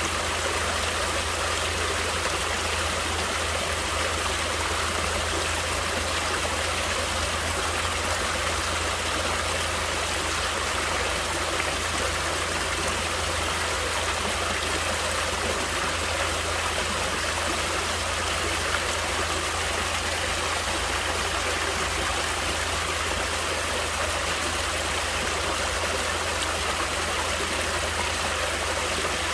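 Stream water flowing in a steady, unbroken rush with a constant low rumble beneath it.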